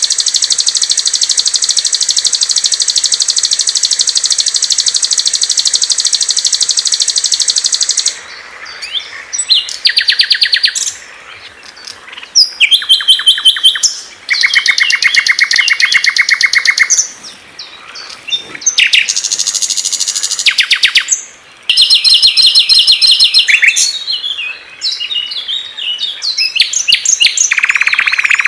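Songs of several small songbirds spliced one after another: a long, high, unbroken trill for about the first eight seconds, then short runs of rapid trills and chattering notes at different pitches, each starting and stopping abruptly.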